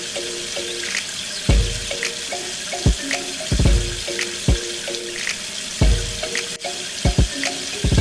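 Steady rush of running water, as from a tap or a small pump's outlet, under background music with a melody and heavy bass beats.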